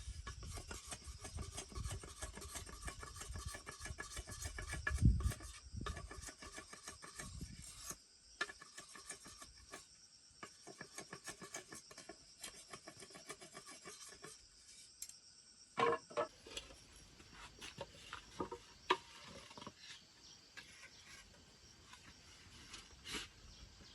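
Repeated rasping, scraping strokes on wood for the first several seconds, then scattered sharp knocks. A steady high insect drone runs behind until it stops about two thirds of the way in.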